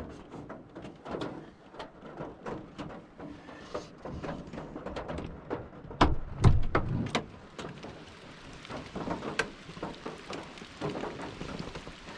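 Steady heavy rain falling, with many sharp drips and taps of drops striking close by. A couple of louder dull thumps come about six to seven seconds in.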